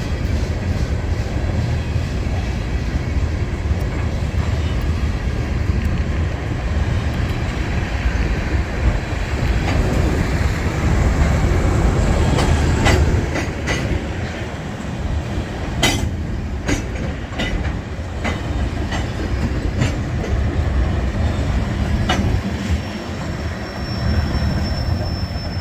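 Freight train cars rolling slowly past with a steady low rumble. Through the middle the wheels click sharply over rail joints, and near the end a thin, high wheel squeal comes in.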